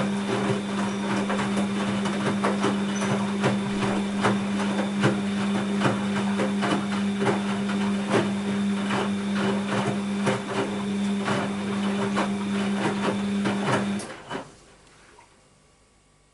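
Bosch WAB28220 washing machine running: a steady hum with many quick clicks and knocks over it, which cuts off suddenly about fourteen seconds in, leaving near silence.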